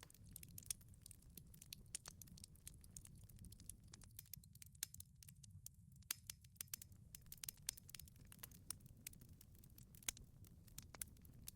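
Wood fire crackling in a wood-fired pizza oven: frequent small irregular pops and snaps over a soft low rumble of burning, with a few sharper pops standing out.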